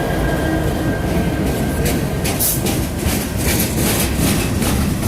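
Freight train's diesel locomotives passing close by, with a steady heavy rumble. From about a second and a half in comes a rapid run of sharp clicks and clacks from the wheels on the rails.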